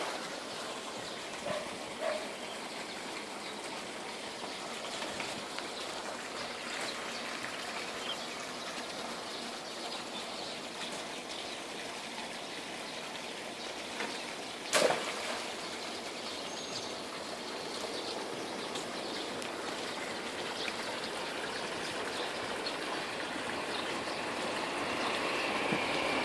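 Steady running, trickling water, with a single sharp knock about fifteen seconds in.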